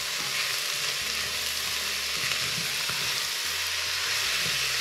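Mushrooms and chopped onion frying in oil in a multicooker bowl: a steady sizzle, with the light scraping of a spatula stirring them.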